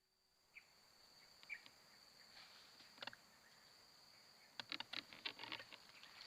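Faint, steady, high-pitched insect buzz in near silence, with a few scattered faint clicks and a cluster of light clicking rustles near the end.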